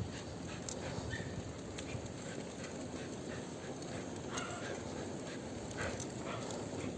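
A husky running beside a moving bicycle: irregular light ticks of its footfalls on the road over a steady rolling hiss.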